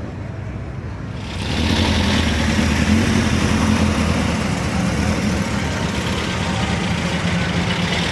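A car engine running close by, getting louder about a second in and then holding steady with a low, even rumble.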